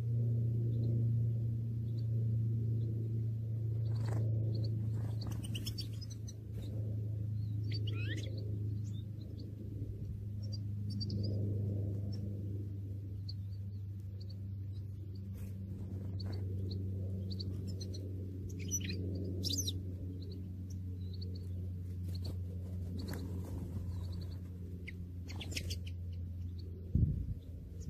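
Small birds chirping in short, scattered calls and brief trills over a steady low hum, with a few low bumps near the end.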